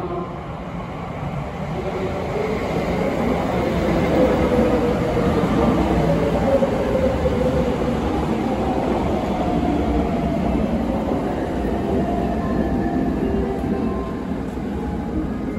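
Electric limited express train pulling into a station: a steady rumble of wheels on rails, with a whine that slowly falls in pitch as the train slows.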